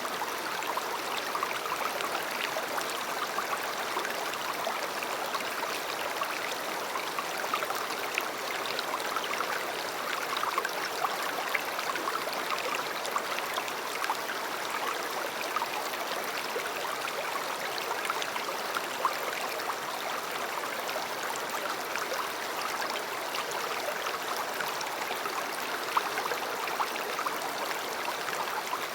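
A river flowing steadily over rocks: a continuous rushing and babbling of water with small splashes.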